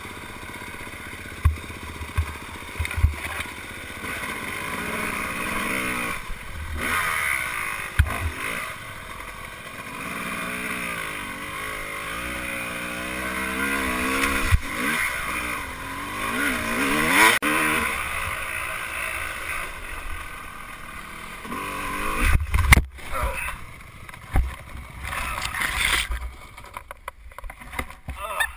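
Dirt bike engine being ridden, its pitch rising and falling with the throttle. Scattered knocks and thumps break in, with the loudest cluster of thumps about 22 seconds in.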